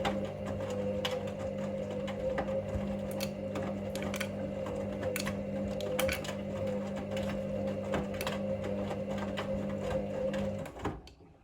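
Hoover Link washing machine tumbling its drum during the main wash: a steady motor hum with irregular clicks and knocks. The motor stops near the end, the usual pause before the drum turns the other way.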